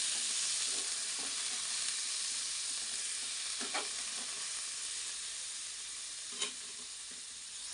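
Diced chicken sizzling as it fries in hot oil in a kadai, a steady hiss that slowly fades. Two brief clicks from the stirring, about halfway and near the end.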